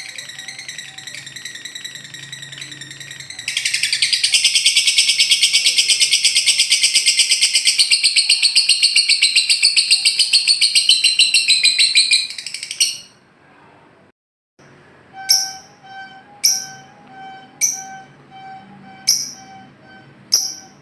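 Lovebird's long, rapid chattering trill (the 'ngekek'), getting much louder about three seconds in and carrying on for about nine seconds before stopping. After a short break, a run of short, sharp, high chirps repeats about once a second over a faint steady tone.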